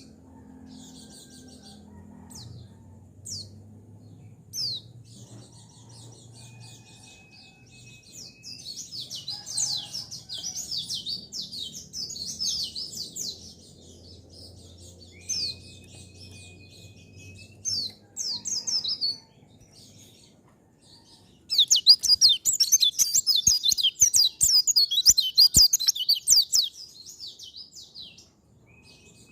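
Pleci (white-eye) singing: scattered single chirps and short whistles, broken by two runs of fast, high warbling song, the second and loudest starting about two-thirds of the way through.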